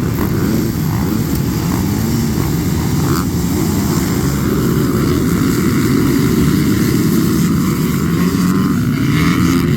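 Two-stroke dirt bike engine running hard, its pitch rising and falling as the throttle is worked.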